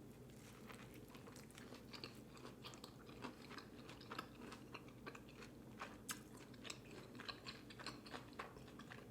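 Faint, close-up chewing of food: many small, irregular wet clicks and crunches, with no words.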